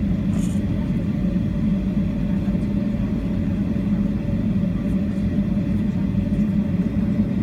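Steady drone and rumble of an airliner's jet engines, with a constant low hum and faint higher steady tones.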